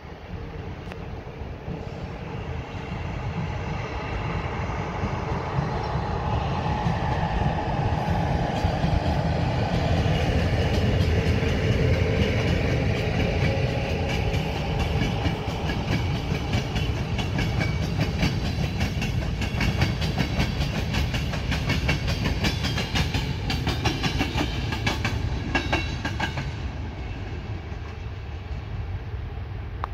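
A train passing by: a rising then falling running noise with a tone that drops in pitch as it builds, and wheels clicking rapidly over rail joints for most of its passage before it fades.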